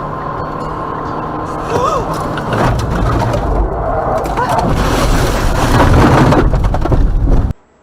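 Car road and engine noise that grows louder and rougher after a couple of seconds, with scattered knocks and rattles, then cuts off abruptly near the end.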